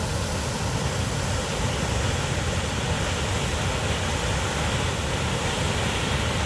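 Waterfall plunging, a loud steady rush of falling water with deep rumble.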